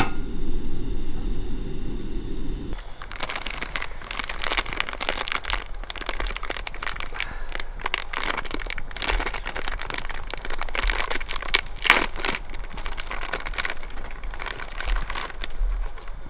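Wood campfire crackling, with irregular sharp pops and snaps. For the first few seconds a low rushing noise runs underneath, then stops.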